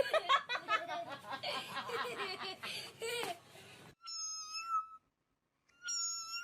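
A person laughing in quick bursts for about three seconds. Then, after an abrupt cut, two separate steady high-pitched tones, each lasting under a second.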